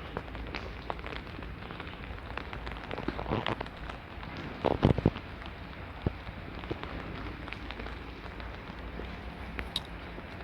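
Steady rain with many small drops ticking close to the microphone, and a brief louder knock or rustle about five seconds in.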